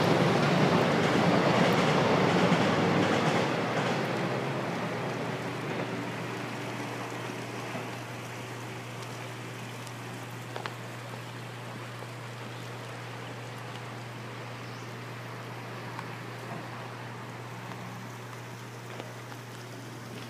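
An electric train on the Taiwan Railways line, its loud rushing noise fading away over the first several seconds as it moves off, leaving a steady low hum.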